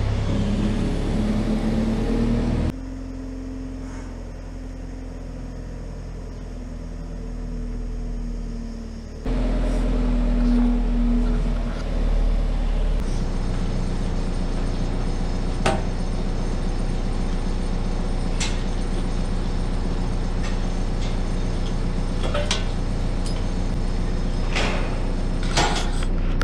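Engine of the lifting machine running steadily, with a whine that rises and wavers a couple of times. Scattered clicks and knocks come in the second half.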